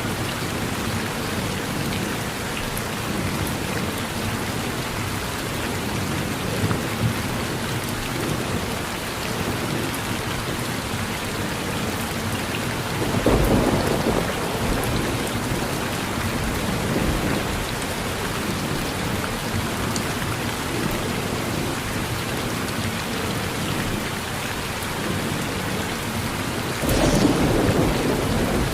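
Steady rain falling on a porch, with a rumble of thunder about halfway through and another starting near the end.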